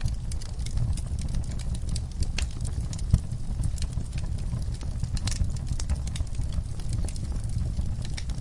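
Wood fire in a fireplace crackling: irregular sharp pops and snaps over a low steady rumble, with one louder pop about three seconds in.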